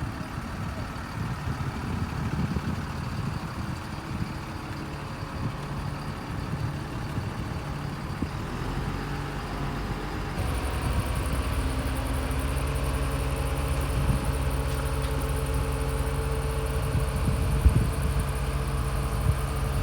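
Heavy truck engine running steadily, with a low rumble that becomes louder and more even about halfway through, and one sharp knock near the end.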